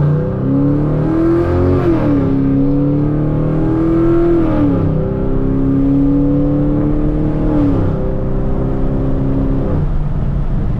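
Straight-piped Chevrolet Camaro V8 at full throttle, pulling hard through the gears: the engine note climbs and drops sharply at each of three upshifts, a couple of seconds apart, then holds before the throttle is lifted near the end.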